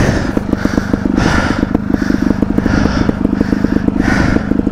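Two-stroke trials motorcycle engine idling steadily while the bike stands still.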